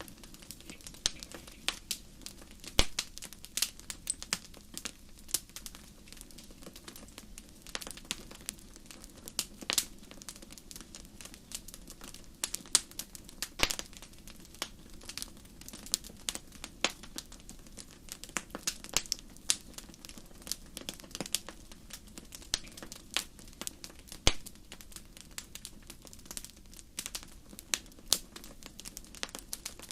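Wood fire in a fireplace crackling: irregular sharp pops and snaps, several a second, over a soft steady hiss of the flames, with a few louder pops standing out.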